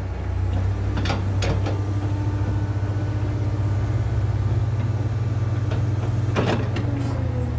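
Truck engine running steadily with a low, even rumble, with a few short sharp knocks about a second in and again near the end.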